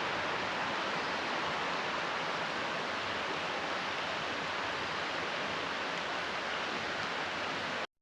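Steady rushing of water, an even hiss with no separate events, cutting off abruptly near the end.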